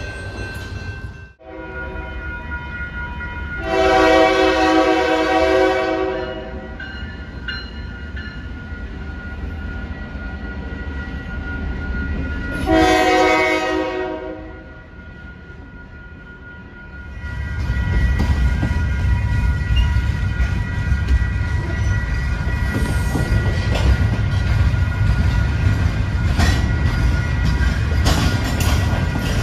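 Train locomotive air horn sounding twice, a long blast and then a shorter one, over a low rumble. Then the train passes close, rumbling louder with the wheels clicking over the rail.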